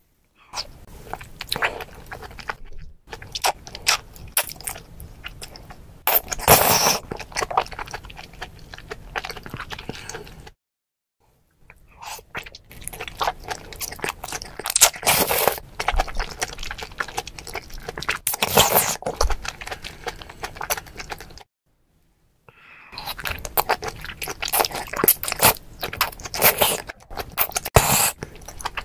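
Close-miked ASMR eating: bites and chewing of large raw oysters dipped in red chili sauce, in quick close-up clicks and wet bursts. The sound cuts to silence twice, for about a second each time.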